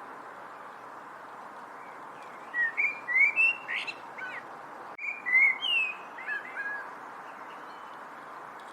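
A songbird chirps two short bursts of quick, gliding whistled notes, about two and a half and five seconds in, over a steady background hiss.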